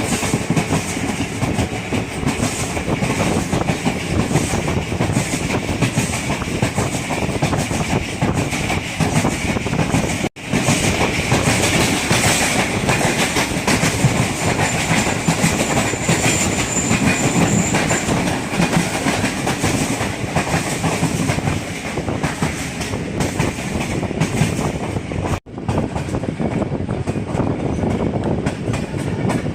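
Passenger train running on the track, heard from a coach window: a steady rumble with the clickety-clack of the wheels over rail joints.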